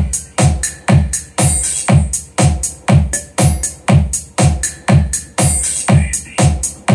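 Bass-heavy electronic dance music played through a DIY D15 full-range speaker with a Rockford 15-inch midbass driver and tweeter, a deep kick drum landing about twice a second.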